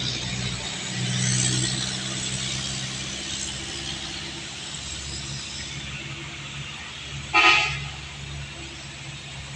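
A truck engine running steadily, with one short, loud horn toot about seven seconds in.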